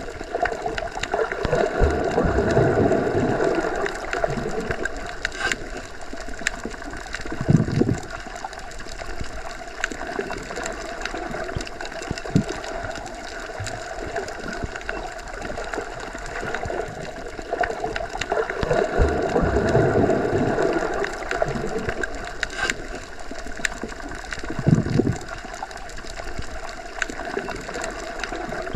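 Underwater ambience: a muffled, steady water rush with a low hum. It swells slowly twice, and a short low thump comes twice, once near the middle and once near the end.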